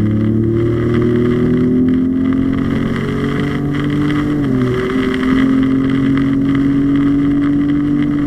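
Ford Raptor's twin-turbo V6, fitted with a Corsa Extreme cat-back exhaust and downpipe, running steadily under way. Its pitch creeps up slowly, drops sharply about four and a half seconds in as the transmission shifts up, then holds steady.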